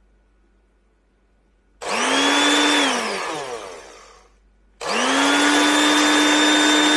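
A household appliance's electric motor switched on in short runs. About two seconds in it spins up with a rising whine, runs for about a second, then winds down with falling pitch. It starts again about five seconds in and runs steadily.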